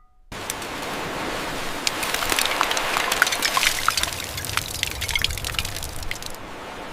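Water running and splashing, with many small crackles and drips. It starts right after a short silent gap.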